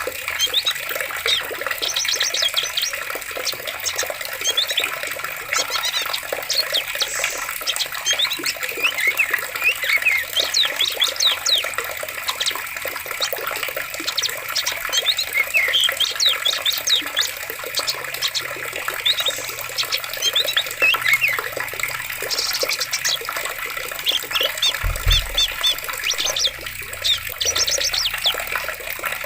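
Flowing forest stream with many birds calling and chirping over it. A brief low thump about 25 seconds in.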